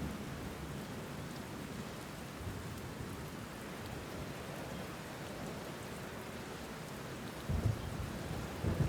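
Steady rain falling, with two brief low rumbles of thunder near the end.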